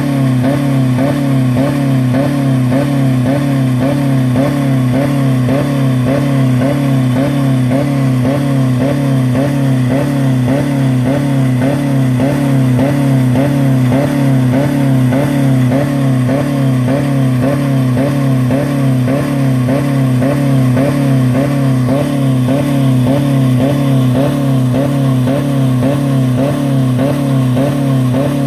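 2000 Dodge Neon's four-cylinder engine held flat out at about 4000 rpm against the rev limiter, running with no oil or coolant left in it. It runs steadily with a regular pulsing about twice a second.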